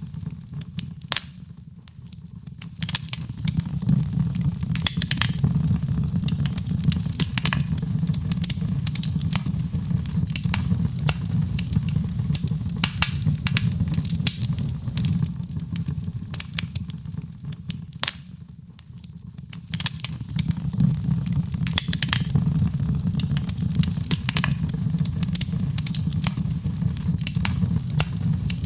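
Fireplace fire crackling, with frequent sharp pops over a low steady rumble of flames. It dips quieter twice: a couple of seconds in and about two-thirds of the way through.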